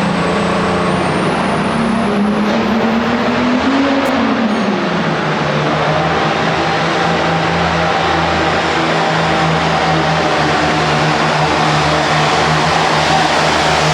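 Super Farm pulling tractor's turbocharged diesel engine running hard under load on a pull. Its pitch climbs for about four seconds, drops sharply, then holds steady and loud, with a high whistle rising over the first few seconds.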